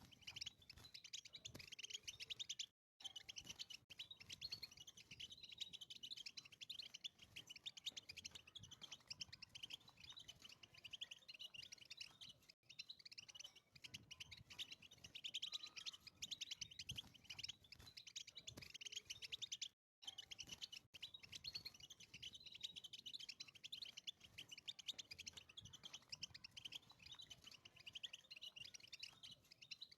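European goldfinch singing: a fast, continuous, high twittering song, broken by a few brief silent gaps.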